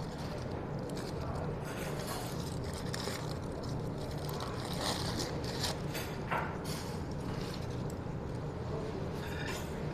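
Eating sounds: scattered short clicks and scrapes of cutlery and food on a plate, with chewing, over a steady low hum.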